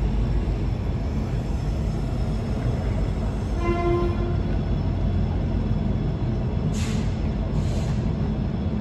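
Express train running at speed, heard from inside a passenger coach: a steady low rumble of wheels on track. About halfway through there is a short horn note, and near the end two short hisses.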